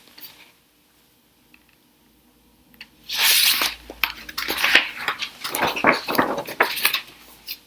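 Paper rustling and crinkling as a picture book's page is handled and turned, starting about three seconds in and lasting several seconds.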